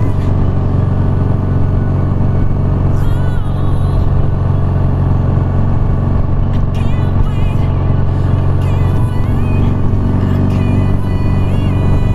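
BMW R nineT boxer-twin engine running at a steady cruise, with pop-electronic background music and a sung melody over it.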